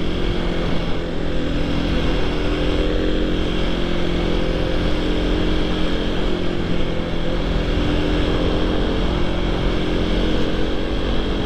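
Motorcycle engine running at a steady cruising speed, its note drifting only slightly, with rushing wind noise from riding.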